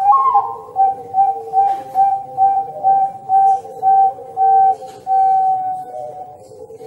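A whistle-like tone sounds in short, even pulses, about two and a half a second, ending in one longer held note. Under it runs a lower steady drone.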